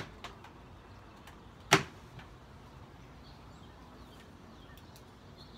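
Wooden beehive being opened: a single sharp knock about two seconds in, with a fainter click at the start and a few light ticks afterwards.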